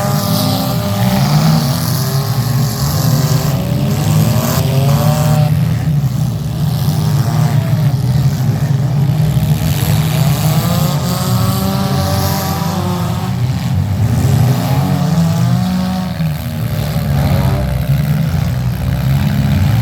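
Several demolition derby car engines running at once, revving up and down over and over, with a few brief knocks among them.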